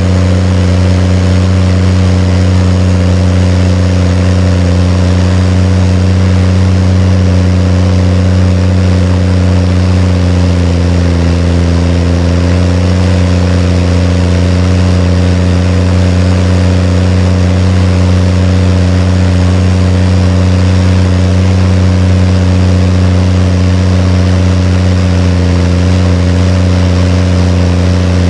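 Case IH tractor diesel engine running steadily, with the engine note dipping slightly for a few seconds midway and then recovering.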